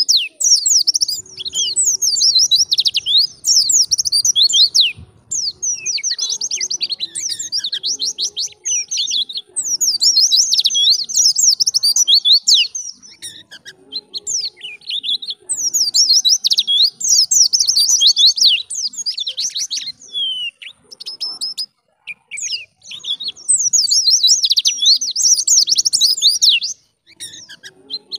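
A white-eye (pleci) singing in long, rapid, high-pitched twittering phrases of a few seconds each, separated by short pauses.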